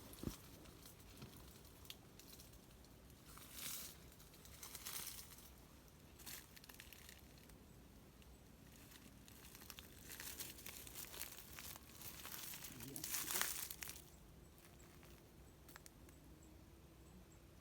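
Intermittent rustling and crinkling in several irregular bursts, the loudest about 13 seconds in.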